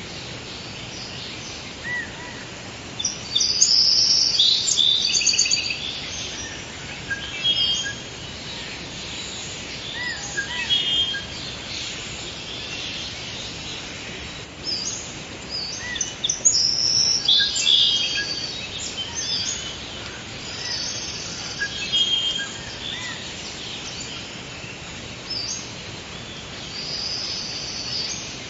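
Forest ambience: several birds chirping and trilling in short, high phrases over a steady background hiss, with the busiest calling a few seconds in and again past the middle.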